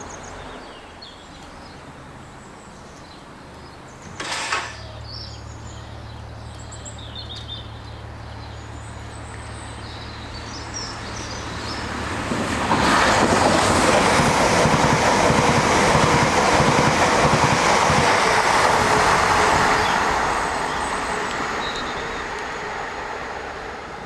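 Southeastern Class 395 Javelin electric train passing through the station at speed. A low steady hum comes first, then the rush of wheels and air builds sharply about halfway through, holds for several seconds and fades away. A single knock comes about four seconds in, and birds chirp faintly early on.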